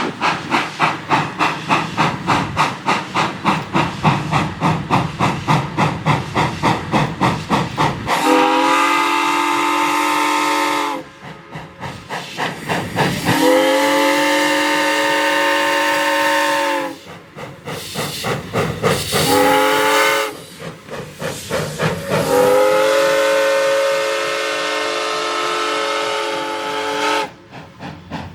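Steam locomotive, the Arcade & Attica's 2-8-0 Consolidation #18, working past with rapid, even exhaust chuffs, about four or five a second. About eight seconds in its whistle sounds four blasts, long, long, short, long: the grade-crossing signal.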